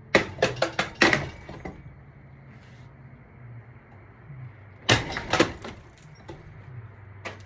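A vintage ceiling fan running with a steady low motor hum while it is being wrecked: a quick cluster of sharp clattering knocks in the first second and a half, then another cluster about five seconds in.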